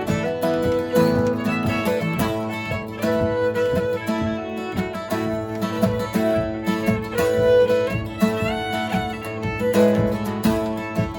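A fiddle and an acoustic guitar playing a jig, the fiddle carrying the melody in quick notes over the guitar's strummed accompaniment.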